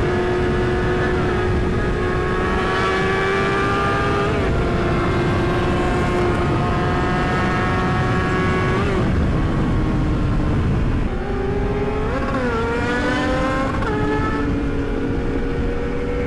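Yamaha R6 sport bike engine running hard at high revs with wind rush, its pitch climbing slowly and briefly breaking around 4 and 9 seconds in. Near 11 seconds the note drops and then rises again.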